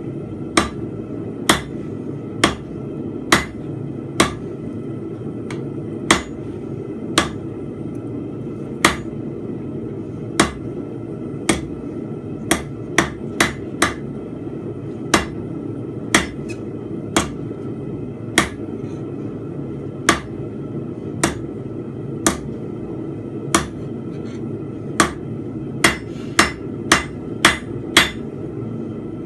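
Blacksmith's hammer striking a steel bar on an anvil while forging a fence peg: sharp ringing blows about once a second, with a quicker run of blows near the end. A steady low rushing noise runs underneath.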